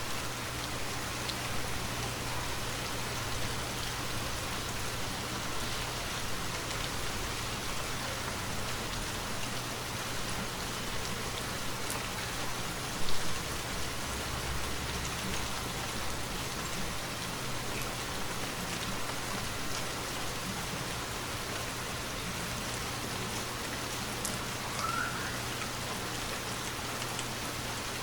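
Steady rainfall, an even hiss of rain with scattered individual drop taps. One sharper, louder tap comes about halfway through.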